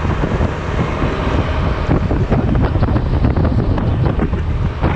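Wind buffeting hard on the camera's microphone while riding a Honda Silver Wing maxi-scooter, with the scooter's engine running steadily underneath.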